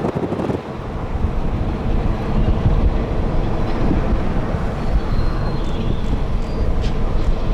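Sugarcane freight train rolling past, a steady loud rumble of wheels on rail with faint high squeals and clicks near the end.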